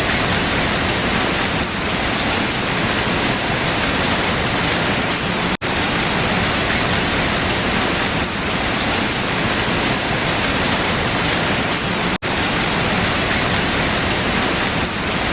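Steady rain falling on leaves. It cuts out for an instant twice, about a third of the way in and again about four fifths of the way in.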